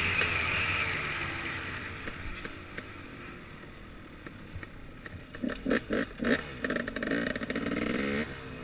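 KTM 300XC two-stroke dirt bike engine dropping away as the bike slows, then running low with a few short throttle blips from about five seconds in.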